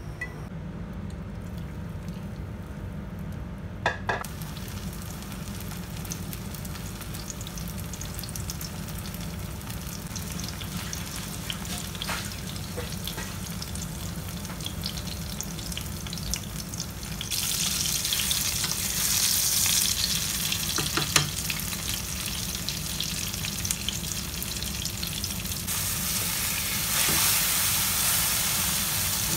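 Egg and eggplant omelette frying in oil in a nonstick pan: a steady sizzle that turns much louder a little past halfway and again near the end, with a few light knocks and scrapes of a wooden spatula as it is turned. A steady low hum runs underneath.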